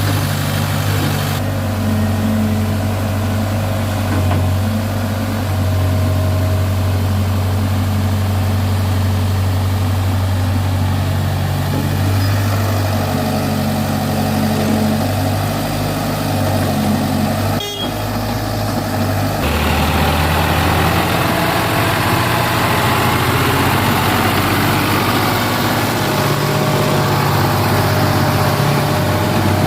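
Sonalika DI-35 RX tractor's diesel engine running steadily. There is a short click a little past halfway, and soon after the engine note changes abruptly and grows brighter.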